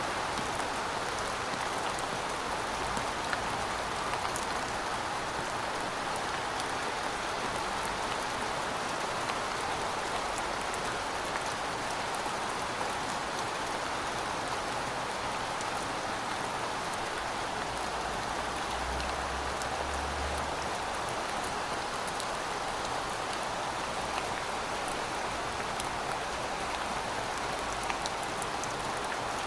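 Heavy rain falling steadily: a dense, even hiss of rain with many sharp individual drop hits scattered through it.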